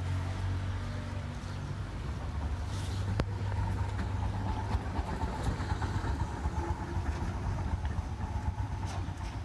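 A motor vehicle's engine running close by, its low hum easing off about two seconds in and leaving a steady low rumble.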